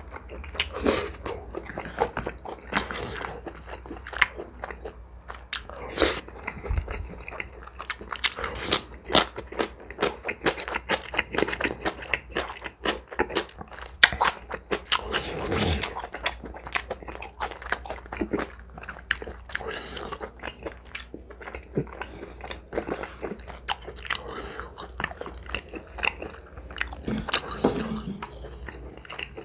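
Close-miked chewing and biting of spicy tomato spaghetti with a chewy grilled intestine (bul-makchang) topping: a steady run of irregular mouth clicks and smacks.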